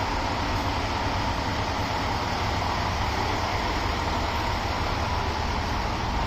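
Steady train noise: a low rumble and an even hiss with a faint steady whine, unchanging throughout.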